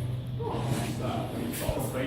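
Faint background voices over a steady low hum, with one short knock near the end.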